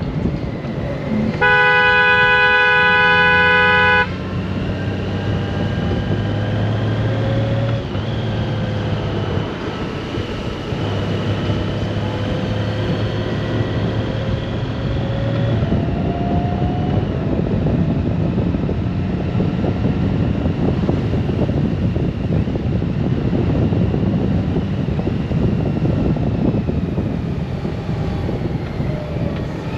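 A vehicle horn blares once for about two and a half seconds, starting about a second and a half in. Around it, the steady running noise of the Honda GoldWing's flat-six engine and the road, with engine tones slowly rising and falling as the motorcycle rides on.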